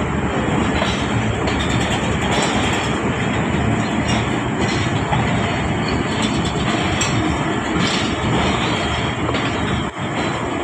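Railway coaches rolling along the track close by: a steady rumble of steel wheels on rail with occasional clacks over the rail joints.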